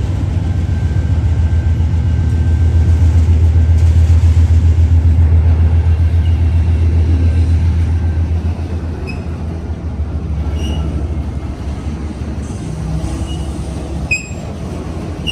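Freight train passing: a diesel locomotive's deep, pulsing engine rumble, loudest in the first half, eases about eight seconds in as the cars roll by with a few brief high wheel squeaks and a sharp click near the end.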